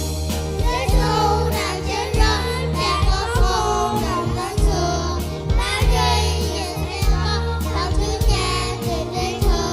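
A group of children singing a Christmas song over accompaniment music, which carries a steady beat.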